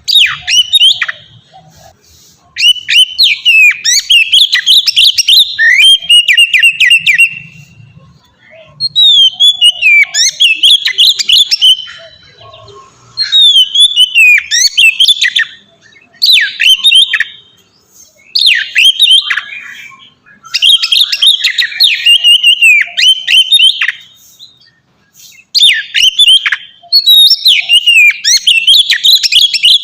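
Oriental magpie-robin (kacer) singing loud, varied whistled song phrases in repeated bursts of one to five seconds, with short pauses between them.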